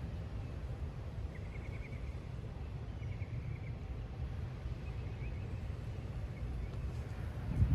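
Gusty thunderstorm wind buffeting the microphone: a steady low rumble that rises and falls with the gusts.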